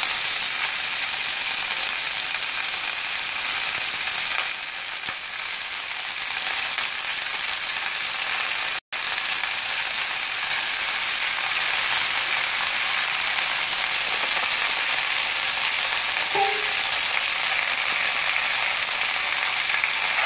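Wet chopped fenugreek leaves sizzling steadily in hot oil in a kadhai, just added on top of fried garlic and green chillies. The sound cuts out for an instant about nine seconds in.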